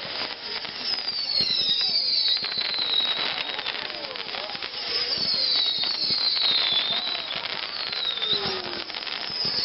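Fireworks going off: dense crackling with several high whistles that fall in pitch, one after another.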